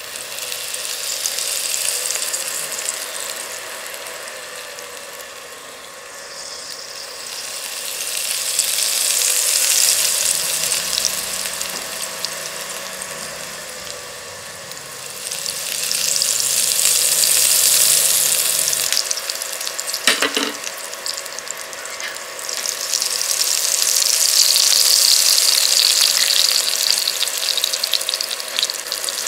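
Oil sizzling around tomato rings frying in a stainless steel pan, the hiss swelling and easing in several waves, with one sharp knock about two-thirds of the way through.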